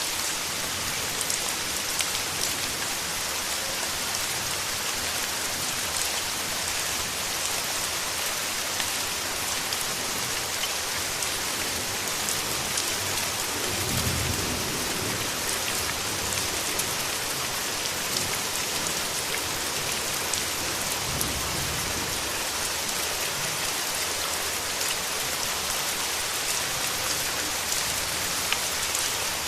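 Steady rain with many individual drops ticking close by. A short low rumble comes about halfway through and another about two-thirds through.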